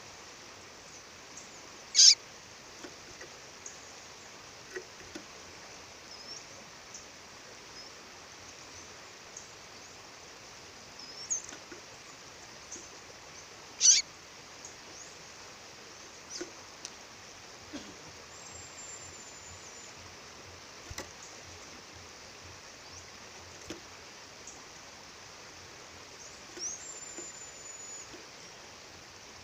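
A female songbird calling over the steady rush of a waterfall: scattered short high chirps, two much louder sharp chirps, and two long thin high whistles held level.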